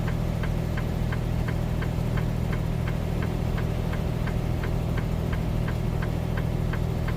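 Hazard flasher relay clicking steadily, about three clicks a second, over the steady low drone of the semi truck's diesel engine heard inside the cab.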